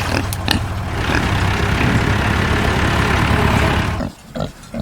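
A steady low rumble like an idling motor, with a noisy hiss over it, cuts off about four seconds in. Short pig grunts follow near the end.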